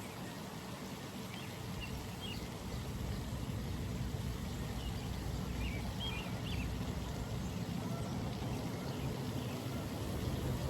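Early-morning pond ambience: a steady low rumble that grows a little louder a couple of seconds in, with a few short, high bird chirps over it.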